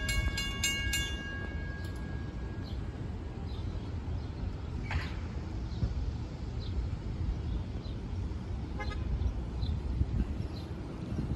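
Steady low rumble of road traffic, with faint short high chirps about once a second. A few steady tones fade out about a second in.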